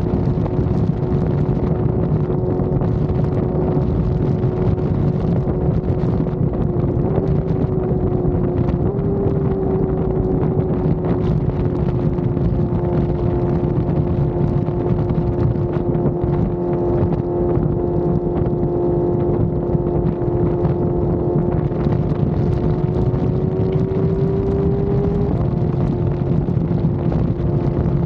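Motorcycle engine running steadily at freeway cruising speed, a held droning tone with heavy wind rushing over the microphone. The engine pitch steps up slightly a few times, creeps higher late on, then drops back near the end.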